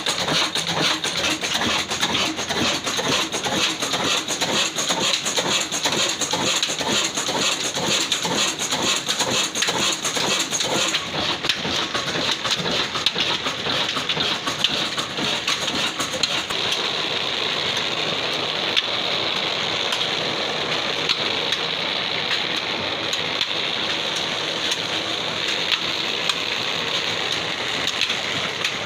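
Old black desi diesel engine running steadily with a fast, even beat. A rushing, rain-like noise grows over the second half.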